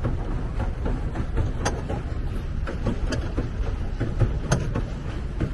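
Pedal boat under way on open water: a steady low rumble with a sharp knock about every second and a half, in time with the pedalling.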